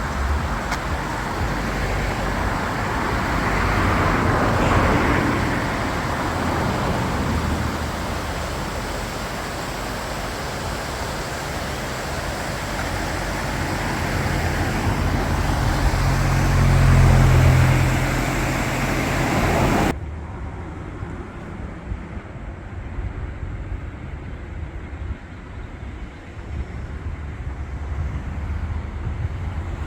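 Road traffic: vehicles passing with engine and tyre noise, one swelling loudest at about 17 seconds. The sound cuts off abruptly at about 20 seconds to a quieter low rumble.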